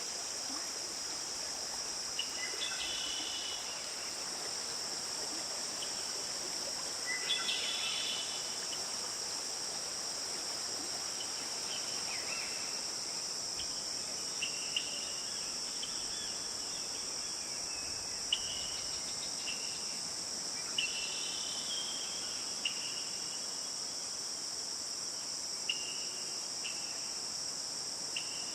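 A steady, high-pitched chorus of insects, with short bird chirps scattered through it, a few at a time.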